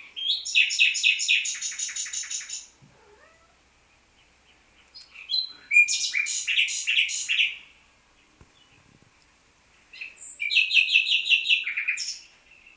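A songbird singing three phrases of rapid, evenly repeated high notes, each about two seconds long, with pauses of a few seconds between.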